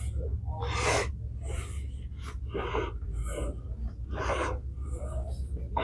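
A person breathing close to the microphone, a string of irregular breaths over a steady low hum.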